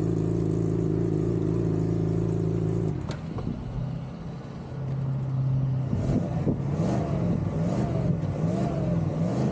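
A vehicle engine running steadily. About three seconds in the sound changes abruptly and drops in level. From about six seconds in, the pitch rises and falls over and over, less than a second per cycle, like repeated revving.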